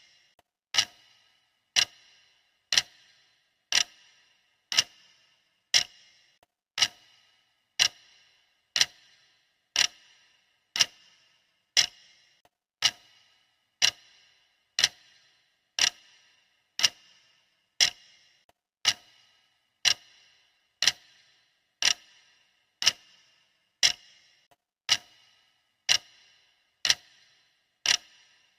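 Sharp clock ticking, one tick every second at a steady beat.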